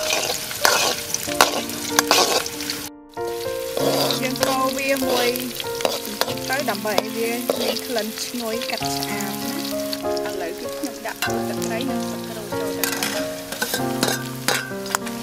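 Sliced shallots and garlic sizzling in hot oil in a steel wok, with a metal spatula stirring and scraping against the pan in sharp clicks. Near the end, a plate of lemongrass, kaffir lime leaves and galangal is tipped into the wok. A simple melody plays underneath, and the sound cuts out briefly about three seconds in.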